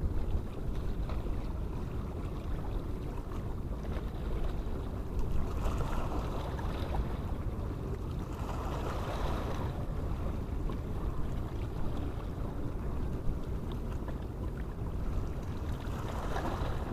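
Steady low rumble of wind buffeting the microphone over harbour water, with two swells of hissing noise about a third and halfway through.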